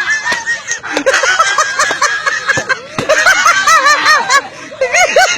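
Several people laughing and giggling in short, high-pitched bursts.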